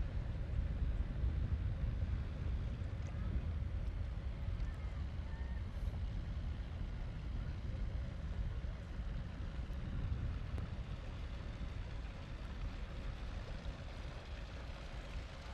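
Boat motor running steadily with a low rumble and a faint steady hum, mixed with wind buffeting the microphone. It grows gradually quieter toward the end.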